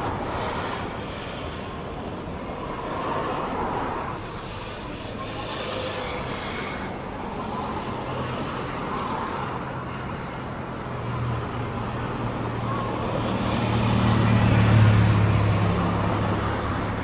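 Street traffic with a motor vehicle passing: its low engine hum builds over several seconds, is loudest near the end, then fades.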